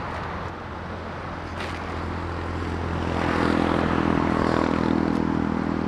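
A vehicle engine humming steadily, growing louder about halfway through and easing off a little near the end.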